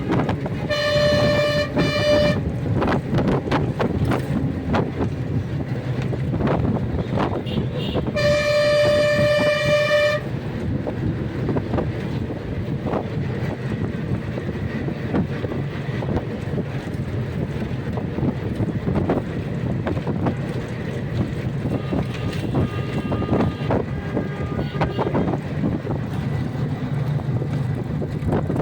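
A horn sounding a single steady note twice: once near the start, with a short break, for about a second and a half, and again about eight seconds in for about two seconds. Fainter horn toots follow near the end over steady background noise.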